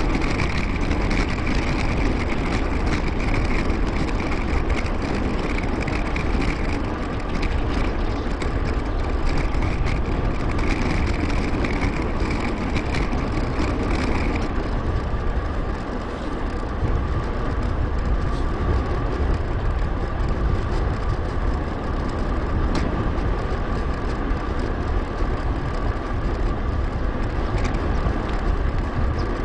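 Steady wind and riding noise on a bicycle-mounted action camera's microphone, with a deep rumble throughout; a higher hiss drops away about halfway through.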